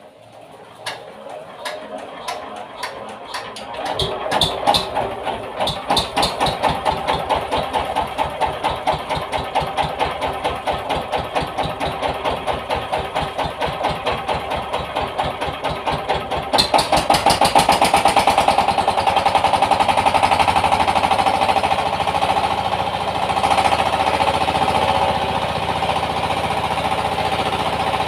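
Yanmar TS 230 single-cylinder diesel engine starting up: slow, separate firing beats that quicken over the first few seconds into a steady rapid chug. About two-thirds of the way through it gets louder and busier and keeps running.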